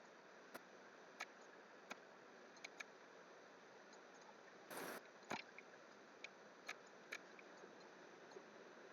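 Near-silent room tone with scattered sharp clicks of a computer mouse and keyboard, and one brief louder noise about five seconds in.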